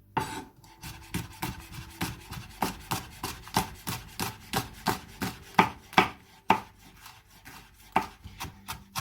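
A knife finely chopping a fresh chilli, the blade knocking against the chopping board in a quick, steady run of about three or four strokes a second.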